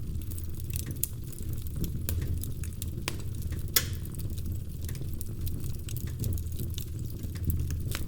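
Wood fire burning in a fireplace: a steady low rumble of flame with irregular sharp crackles and pops, one louder pop a little under four seconds in.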